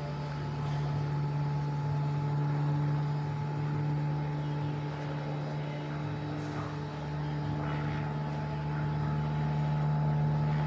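Airplane flying overhead: a steady engine drone with a low hum that swells slightly and eases off.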